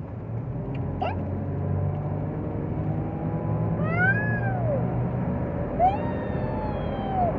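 Toyota Prado's 5VZ-FE V6 engine running and growing louder under acceleration. Three short high squeals rise and fall over it, about one, four and six seconds in.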